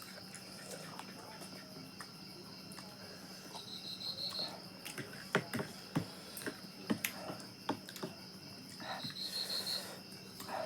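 Insects chirping steadily in the background, with two short trills about four and nine seconds in, under scattered sharp clicks and smacks of eating.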